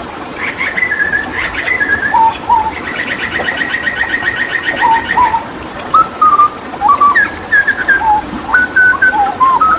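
Hooded butcherbird singing: short, clear whistled notes, some in pairs, with a fast rattling trill of rapidly repeated notes from about three seconds in, lasting about two seconds.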